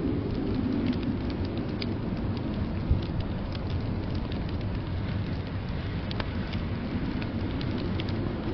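Wood fire crackling in a fireplace, with irregular sharp pops, over a steady low rumble of blizzard wind. A single low thump comes about three seconds in.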